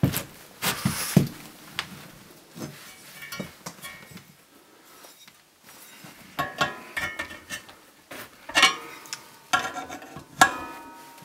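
Metal parts being handled: a series of sharp clinks and knocks, several ringing briefly. The clatter is sparse at first and gets busier over the last five seconds, typical of working a threaded gas fitting on a cylinder.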